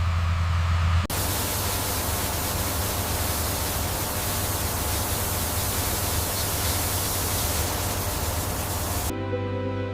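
A low steady hum that cuts off abruptly about a second in, giving way to a loud, even hiss like static or rushing noise. Near the end soft music takes over.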